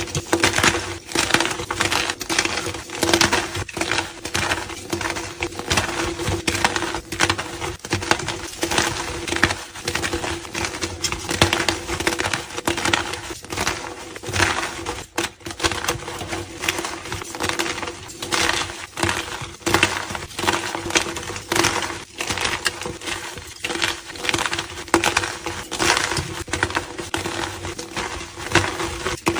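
Blocks of gym chalk crushed by hand, a dense, irregular run of crumbling, crunching crackles with no break.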